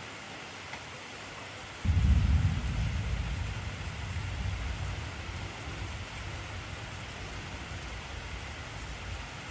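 Steady heavy rain hissing, with a thunderclap about two seconds in that rumbles low and fades slowly through the rest.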